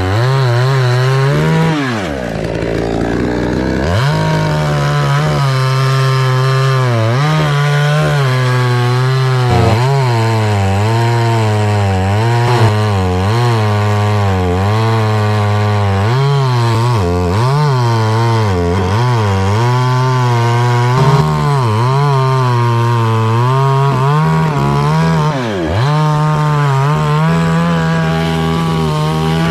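Two-stroke chainsaw cutting anjili wood, its engine pitch sagging under load and picking up again over and over. Twice, about two seconds in and again near the end, the engine drops right down to a low idle and revs back up.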